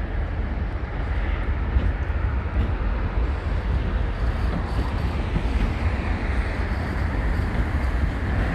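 Diesel-hauled train running past, a steady rumble with no break.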